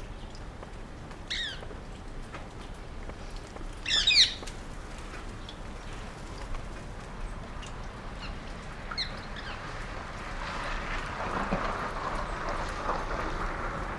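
Rose-ringed parakeets giving short, harsh screeching calls, the loudest about four seconds in and a fainter one near nine seconds. In the second half a steady rushing noise builds up beneath them.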